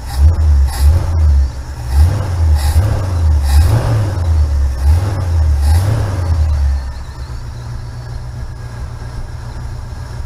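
1969 Pontiac Firebird's V8 with a four-barrel carburetor, running on a newly installed Pertronix electronic ignition, revved by hand at the throttle several times in quick blips. It settles back to a steady idle about seven seconds in and runs cleanly, sounding pretty good.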